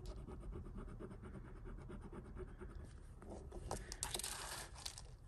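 A piece of jewellery wire rubbed back and forth across a testing stone, a rapid run of short scratchy strokes, with a louder scrape about four seconds in. This is the streak for an acid test of whether the metal is gold or silver.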